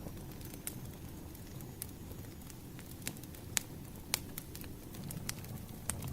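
Firewood burning: sharp crackles and pops, about one a second, over a low steady rumble of the fire.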